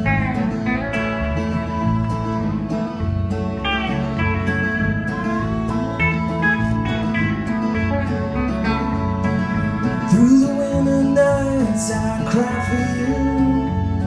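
A country band playing a song live: guitars over a steady bass line, in the instrumental lead-in before the singing starts.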